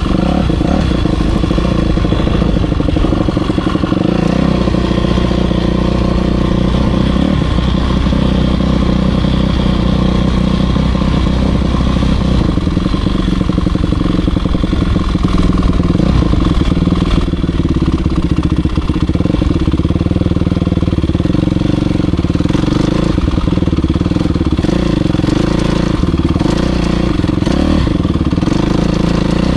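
Motocross bike engine running hard while being ridden, its pitch rising and falling with the throttle throughout.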